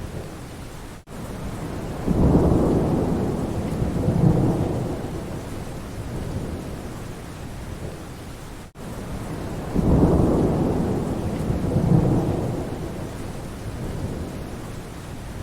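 Steady rain with low rolls of thunder: one rumble swells up about two seconds in and another about ten seconds in, each fading over a few seconds. The sound cuts out very briefly twice, just before each rumble.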